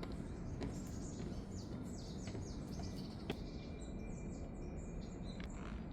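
Small birds chirping in quick runs of short, falling chirps over a steady low rumble, with one sharp click about halfway through.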